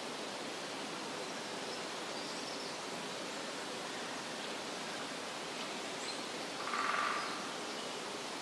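Steady forest ambience: an even rushing noise like wind in the trees or distant running water. About seven seconds in, a short animal call rises briefly above it.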